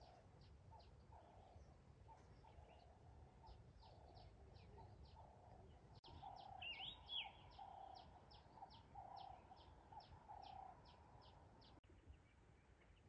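Faint birds calling: a run of short high chirps, several a second, over lower repeated calls, with a brighter twittering call about halfway through.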